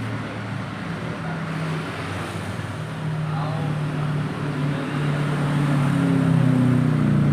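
Small motorcycle engine running steadily, its hum growing louder over the last few seconds.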